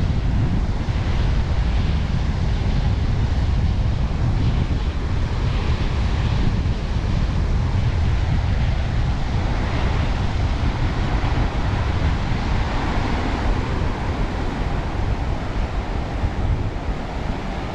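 Strong wind buffeting the microphone in a heavy low rumble, over the steady wash of breaking sea surf.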